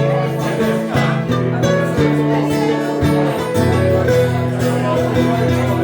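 Instrumental break of a slow folk song played live on acoustic guitar and other string instruments, with held notes moving from one chord to the next and no singing.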